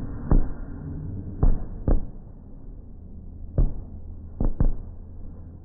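Fireworks bursting: six sharp bangs at uneven gaps, with a quick pair about two seconds in and another near the end, over a low steady rumble.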